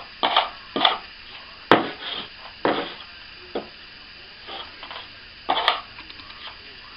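Plastering hand tools scraping and knocking on plaster in a series of short, irregular strokes.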